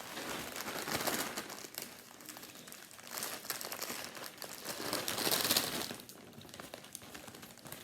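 Plastic zip-lock bag crinkling and rustling as digestive biscuits are tipped into it and handled, with the loudest burst about five seconds in.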